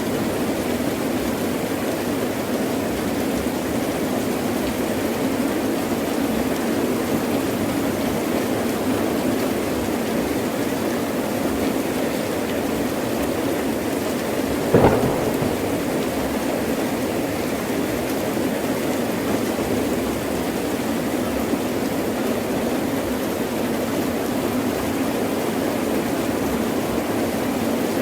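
Heavy rain falling steadily, with a single short, sharp crack of thunder about halfway through.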